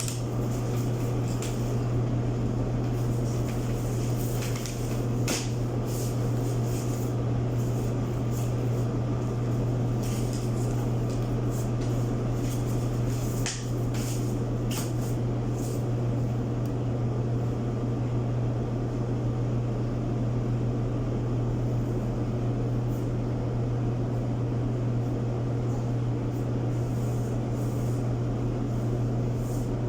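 Steady mechanical hum of a running motor-driven appliance, with a strong low drone and an even whirring above it, and a few faint clicks.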